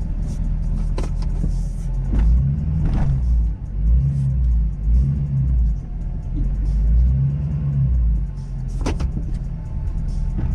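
Ford Super Duty pickup's 6.7 L Power Stroke V8 turbodiesel running under load while plowing, the rumble swelling and easing several times as the throttle comes on and off. A few sharp knocks come through over it.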